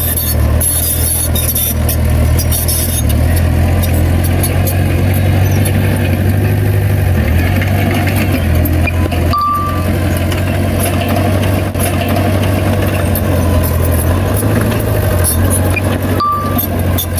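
Heavy diesel engine of earthmoving machinery running steadily, with scattered metallic clanks. A short, high beep sounds twice, a few seconds apart.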